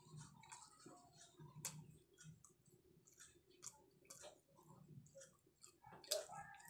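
Faint chewing with scattered soft mouth clicks as a person eats a small piece of food with the mouth closed.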